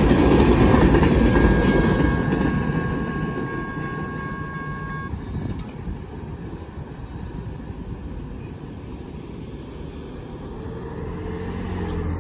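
Rumble and clatter of the last covered hopper cars of a freight grain train rolling past, fading as the train moves away. A thin, steady high ringing tone stops suddenly about five seconds in. Near the end a passing SUV's road noise rises.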